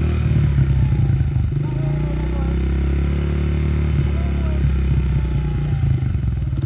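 Honda CRF70's small single-cylinder four-stroke engine running steadily at low revs.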